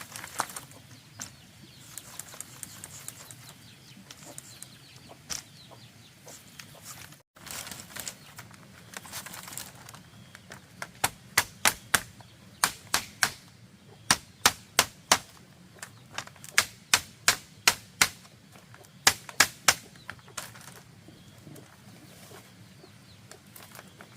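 A run of sharp, evenly spaced knocks, about two a second, starting about eleven seconds in and stopping near twenty seconds, typical of a tool striking bamboo during building work. Fainter scattered clicks come before it.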